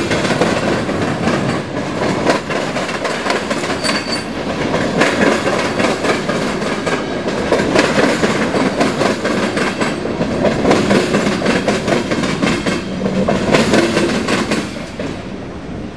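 CSX freight train cars rolling past close by, their steel wheels clattering over the rail joints with a steady rumble and rattle. It fades somewhat near the end.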